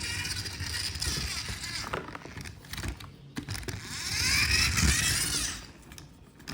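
Toy monster truck rolled along a surface, its wheels whirring twice, the pitch of each run rising and then falling.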